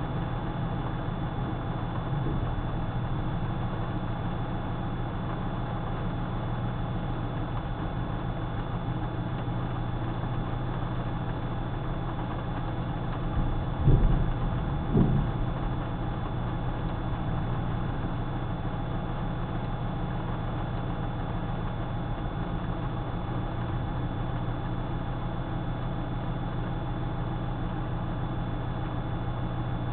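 Vehicle engine idling steadily, heard from inside the cab. Two short thumps come about halfway through.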